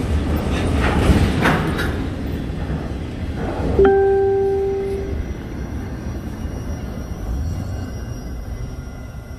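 Autorack freight cars rolling slowly past on the rails: a steady low rumble of wheels with a few sharp clacks over rail joints. About four seconds in, a single metallic ringing tone starts suddenly, lasts just over a second and dies away. The rumble then fades as the train moves off.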